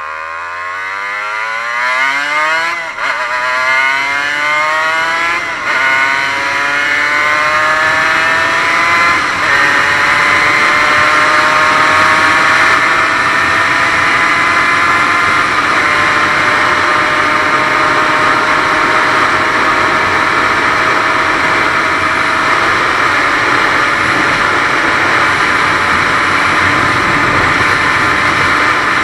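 Aprilia RS 125's single-cylinder two-stroke engine, running without a power valve, accelerating hard. It winds up quickly, drops briefly on gear changes about three, five and a half and nine and a half seconds in, then holds a steady high-revving cruise with a rush of wind.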